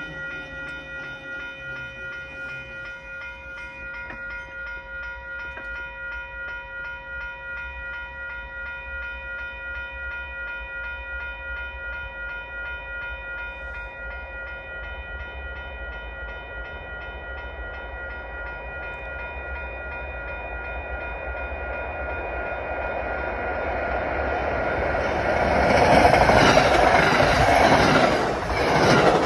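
Railroad crossing bell ringing steadily in a quick repeating pattern. From about twenty seconds in, the rush of an approaching commuter train grows. Near the end it turns into the loud wheel-and-wind rush of the MBTA train's cab car and coaches passing at about 74 mph.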